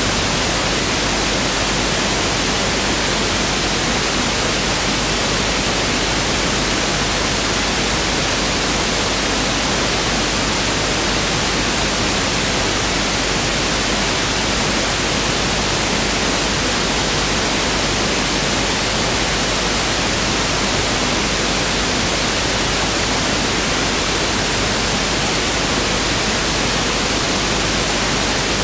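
Pink noise (1/f) test signal: a steady, even hiss with no change in level or character.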